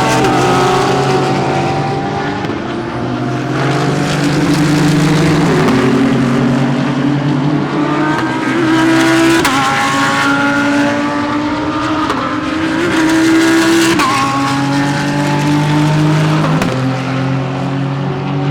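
Several GT3 race cars at racing speed, their engines overlapping. The revs climb and drop abruptly at gear changes a few times, and other engine notes slide in pitch as cars pass.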